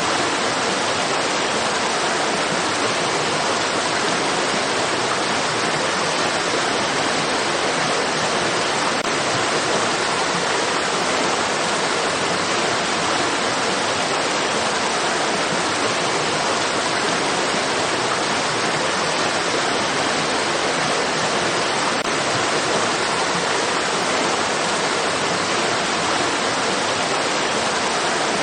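Stream water flowing and rushing in a steady, unchanging hiss, with no breaks or splashes standing out.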